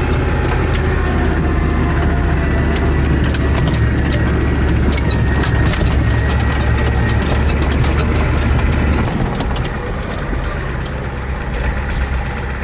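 Old Ford truck engine running hard with a heavy low rumble that eases off about nine seconds in, with scattered clicks and rattles over it.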